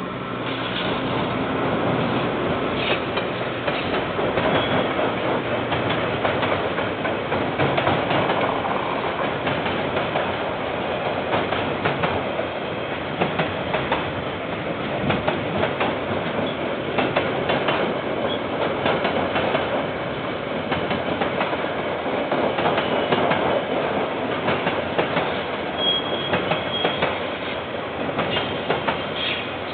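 KiwiRail freight train of container wagons rolling past: a steady rumble of wheels on rail with frequent clicks from the rail joints. It is heard through a security camera's microphone, which sounds thin with no top end.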